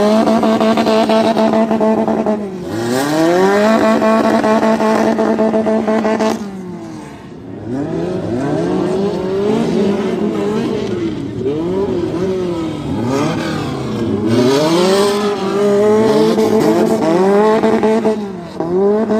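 A supercar's engine is revved hard while standing still. Twice it climbs to a high pitch and holds there for a few seconds before dropping. After a short lull it gives a long run of quick rev blips rising and falling, with another brief hold near the end.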